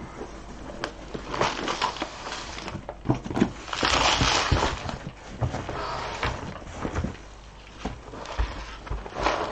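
Hands handling loose beads and their plastic packaging: irregular rustling with many small sharp clicks of beads, loudest about four seconds in.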